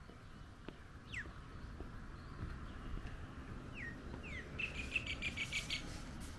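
Small songbirds calling: a few short falling chirps, then near the end a quick trill of about ten notes. Faint footsteps and a steady low rumble lie underneath.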